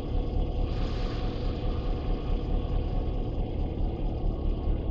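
Illinois Central GP-11 diesel-electric locomotive's engine running at low idle, a steady low rumble.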